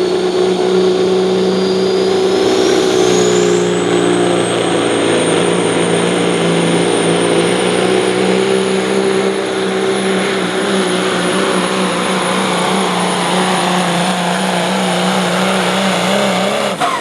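Peterbilt pro stock pulling semi's turbocharged diesel engine running hard under full load down the track, with a high turbo whine that rises over the first few seconds and then holds. The engine sound drops off abruptly near the end.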